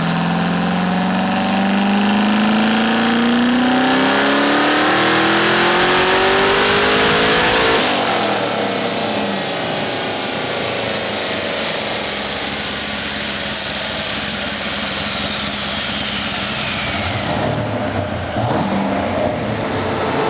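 Twin-turbo V8 of a C6 Corvette Z06 making a full-throttle dyno pull, its note rising steadily for about eight seconds and then cut off suddenly as the throttle closes. A high whine then falls slowly over several seconds as the turbos spool down and the engine drops back.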